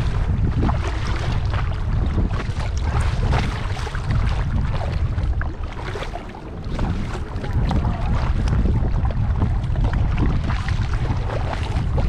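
Wind buffeting the microphone with a heavy, gusting rumble, over water splashing and lapping around a paddled kayak. The wind eases briefly about six seconds in.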